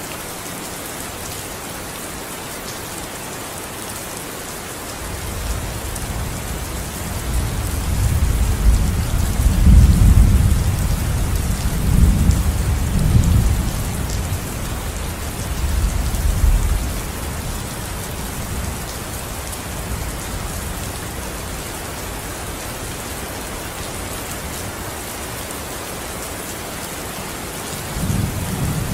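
Steady rain with a long roll of thunder that builds about five seconds in, peaks and rumbles for around ten seconds, then dies away, and another rumble beginning near the end.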